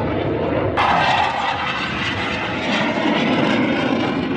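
Aircraft engine noise from a display flight overhead, a steady rushing roar that abruptly turns louder and brighter about a second in.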